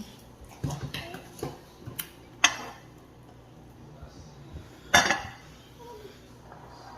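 Dishes and cutlery clattering: a run of small clinks and knocks, then two sharp, louder clanks about two and a half seconds apart, the second the loudest.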